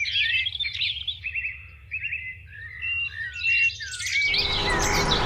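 Songbirds chirping and trilling in quick, overlapping calls. About four seconds in, a steady, louder machine noise comes in underneath them and carries on while the birds keep singing.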